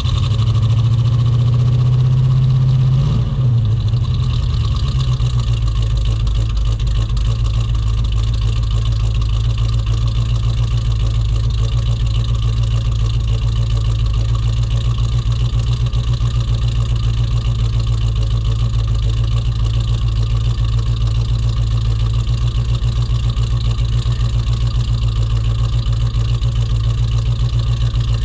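S10's swapped 350 V8, just started cold, running at a fast idle that drops about three and a half seconds in to a lower, lumpy idle. It runs a bit rough, an engine not yet fully tuned.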